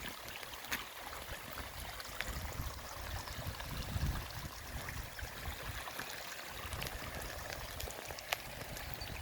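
Rainwater runoff flowing across a road and down into a rock-lined ditch: a steady rush of moving water.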